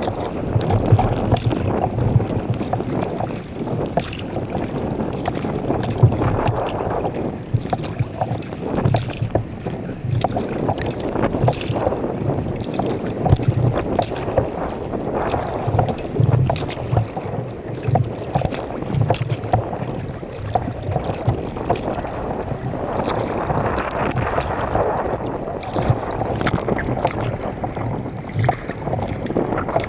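Water splashing and slapping against a kayak moving through wind-driven chop, with irregular splashes every second or two and wind buffeting the microphone.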